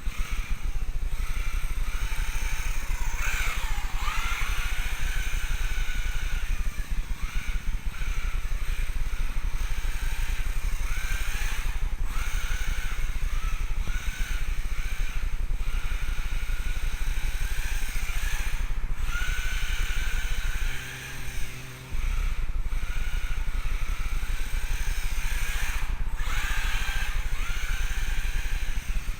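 Small electric motor and drivetrain of a 1/16 four-wheel-drive RC rally car whining in short bursts, the pitch rising and falling again and again as the throttle is worked, over a steady low rumble.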